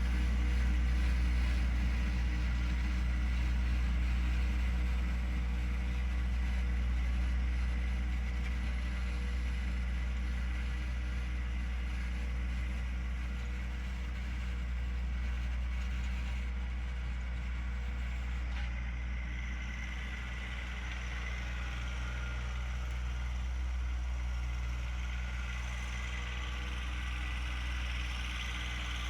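John Deere 1025R compact tractor's three-cylinder diesel engine running steadily at an even speed.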